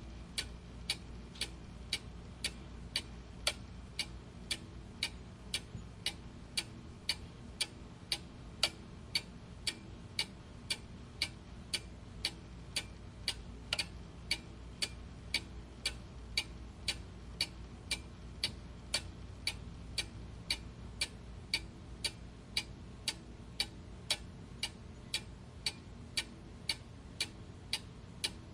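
Clock ticking steadily, about two ticks a second, over a faint low background hum.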